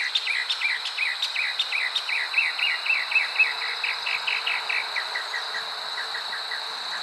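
Outdoor chirping: a rapid run of short, falling chirps, about four a second, that thins out over the last couple of seconds, over a steady high-pitched whine and hiss.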